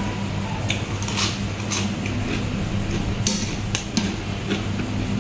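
Close-miked chewing of crisp raw vegetables and salad, with a series of sharp crunches and clicks over a steady low hum.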